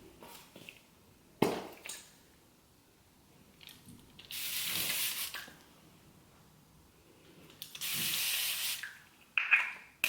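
Two short bursts of hissing spray, about a second each and a few seconds apart, with a sharp knock before them.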